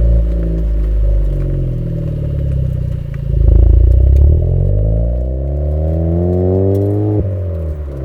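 Suzuki Swift Sport ZC33S's 1.4-litre turbo four-cylinder through a Fujitsubo exhaust. The engine note falls for the first few seconds, surges loudly about three seconds in, then climbs steadily in pitch and drops suddenly near the end, as at a gear change.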